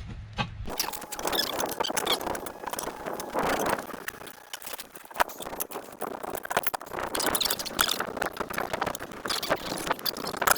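Tire spoons levering a tractor tire's bead over a steel rim: rubber squeaking and scraping against the tire-soaped rim, with many sharp clicks of the irons on the metal.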